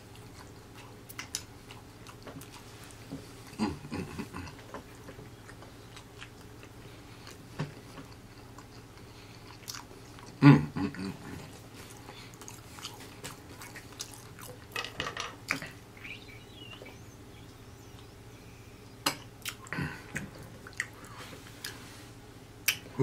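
Close-up chewing of a last mouthful of fried chicken, with scattered soft mouth clicks and smacks. About ten and a half seconds in comes one loud, short, low throat sound, over a faint steady hum.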